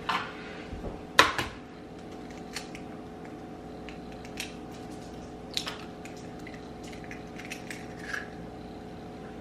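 Eggs being cracked on a bowl and emptied into it: a sharp knock about a second in, followed by lighter clicks and taps of shell against the bowl, over a steady low hum.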